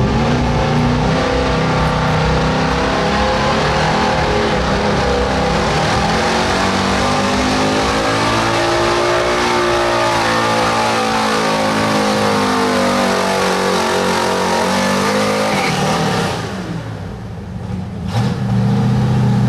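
1978 Chevy pickup's gasoline engine running hard at high revs under load, its pitch rising and then falling in the middle of the run. About sixteen seconds in the throttle drops off and the sound falls away, then it revs up loud again near the end.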